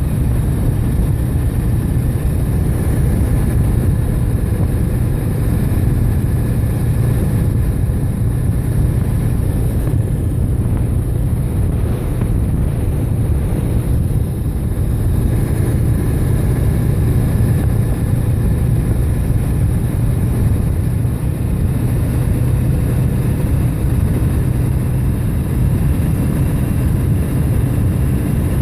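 Motorcycle running at a steady cruising speed: a constant low engine drone mixed with wind rush on the microphone, with no change in pitch.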